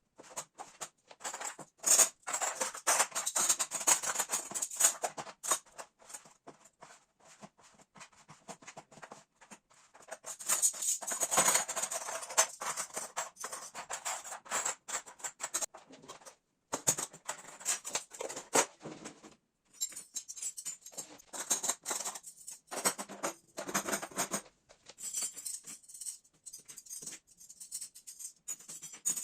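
Rapid rattling, clicking and rustling of household items being handled, in uneven bursts broken by short silences.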